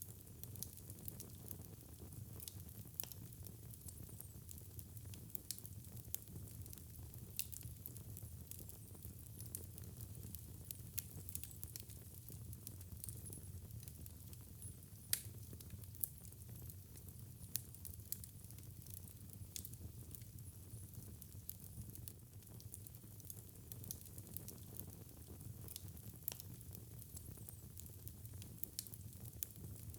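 Wood fire burning in a fireplace: a steady low rumble of flame with irregular sharp crackles and pops, the sharpest pop about halfway through.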